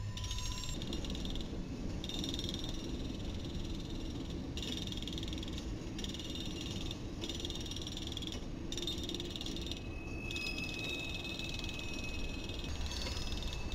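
A freight train of boxcars and tank cars rolling past: a steady low rumble of wheels on rail, with a high, rapid rattling on top that drops out briefly several times. A thin steady squeal joins over the last few seconds.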